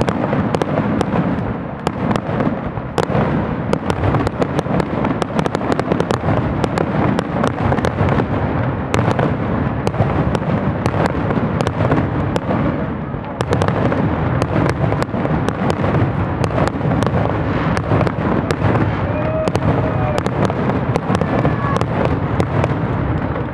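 Rapid barrage of aerial fireworks: many shells bursting in quick succession with overlapping bangs and crackle, loud and nearly continuous.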